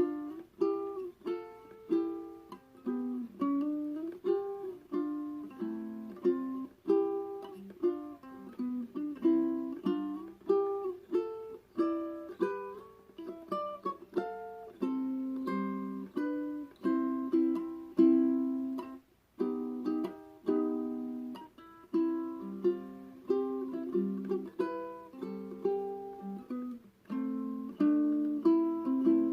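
Solo ukulele played fingerstyle: a plucked melody over chords and bass notes, with a brief pause about two-thirds of the way through.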